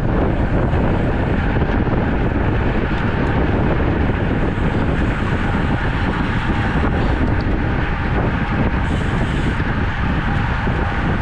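Loud, steady wind rushing over the microphone of a camera carried on a road bike while riding.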